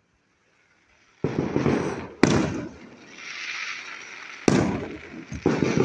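Fireworks going off: quiet for about a second, then a sudden loud burst followed by sharp bangs about a second later, midway through and near the end, with a hissing crackle between them.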